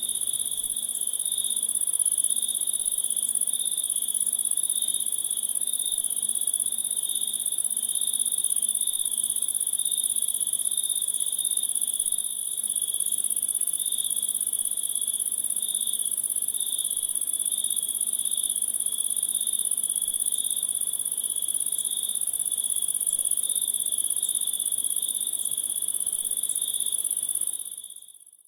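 Steady chorus of chirping insects: a fast pulsing chirp under a continuous high-pitched trill, fading out near the end.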